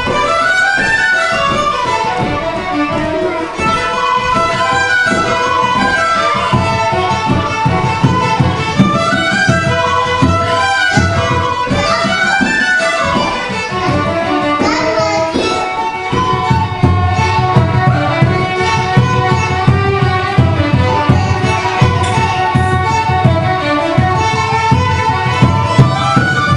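Fiddle playing a fast Irish reel, the melody running in quick, even notes over a lower rhythmic accompaniment that grows stronger about two-thirds of the way through.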